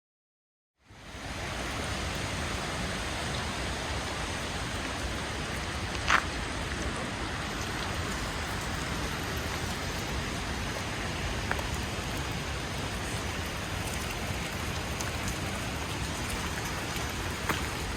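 Steady rush of flowing water, with one brief sharp click about six seconds in.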